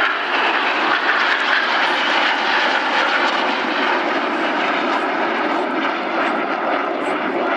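BAE Hawk T1 jets flying in close formation, their Rolls-Royce Turbomeca Adour turbofan engines making a loud, steady jet noise.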